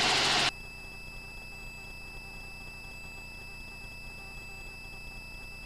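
Helicopter intercom audio feed with the pilot's microphone closed. The rush of open-mic noise cuts off about half a second in, leaving a faint steady high electronic tone over low hiss.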